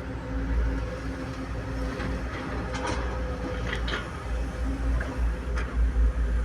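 Excavator's diesel engine running with a steady low rumble and hum. A few short metallic clicks or clanks come through in the middle.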